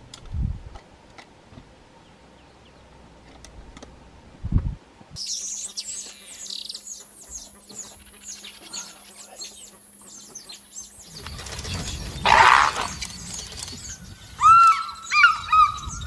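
Wild birds chirping and calling: from about five seconds in, many quick high chirps, then a loud rush of noise around twelve seconds, then several loud ringing calls that bend in pitch near the end.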